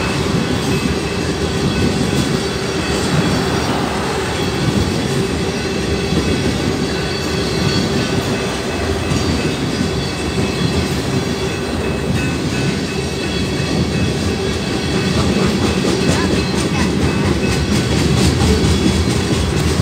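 Freight train of loaded tank cars rolling steadily past a grade crossing: a continuous low running noise of wheels on rail with some clatter, and a thin steady tone over it.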